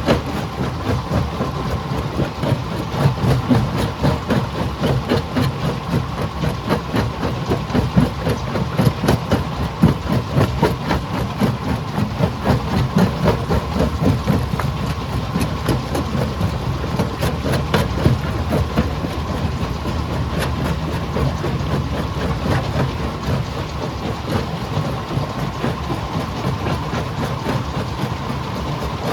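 Stone crusher running: a steady engine drone under constant rapid clattering and knocking of rock being broken.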